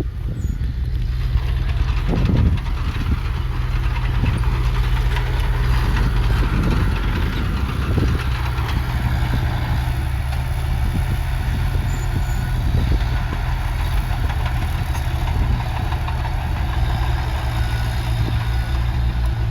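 Heavy diesel engine of earthmoving machinery running steadily with a deep, even hum, with a few short dull thumps along the way.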